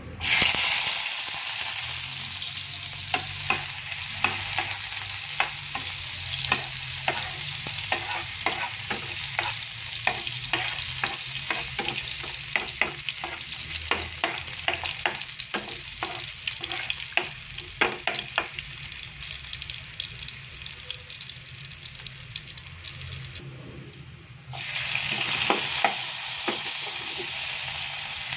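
Chopped garlic sizzling in hot oil in a nonstick frying pan, with a spatula clicking and scraping against the pan as it is stirred. Near the end the sizzle briefly drops, then comes back louder as chopped ginger goes into the oil.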